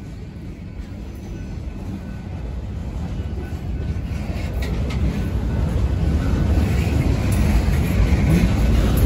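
Freight train cars rolling past on the rails, a low rumble of steel wheels that grows steadily louder.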